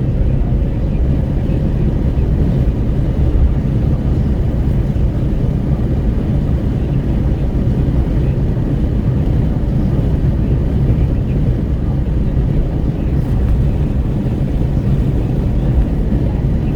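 Wind rushing and buffeting through the open window of a Renault Kwid 1.0 driving on a highway, over steady road and engine noise, heard from inside the cabin.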